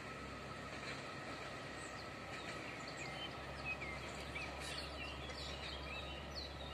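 Faint outdoor ambience with a low steady hum, and birds chirping in a string of short, quick calls through the middle.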